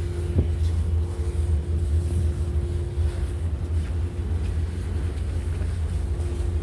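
Ferry's engines and machinery rumbling steadily, heard from on board, with a steady hum over the deep rumble.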